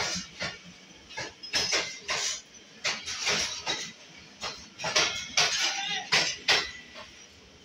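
Pakistan Railways passenger coaches running past close by: the wheels clank and clatter over the rails in sharp, uneven metallic knocks, a few a second.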